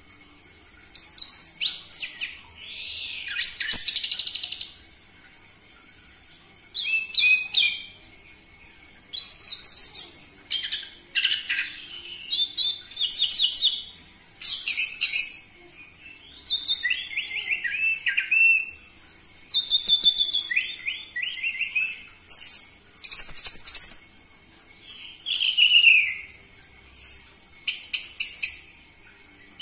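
Orange-headed thrush singing loudly in short, varied, high phrases, some with rapid runs of repeated notes, broken by brief pauses of a second or two.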